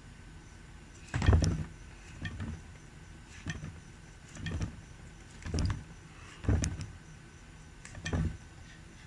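A series of short knocks and clunks, about one a second and somewhat irregular, each a dull thud with a brief click. The loudest comes a little over a second in. It sounds like hands-on work on a washing machine gearbox.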